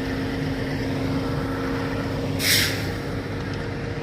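Semi-truck diesel engine running steadily, with one short burst of air hiss about two and a half seconds in.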